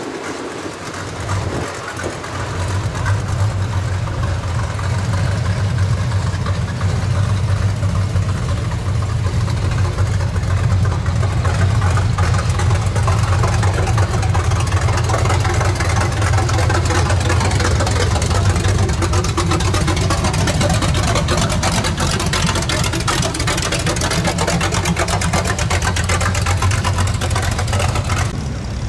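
Classic cars' engines running at a slow cruise, chiefly a square-body Chevrolet pickup's steady low exhaust note as it rolls close past. The sound grows over the first few seconds and cuts off suddenly near the end.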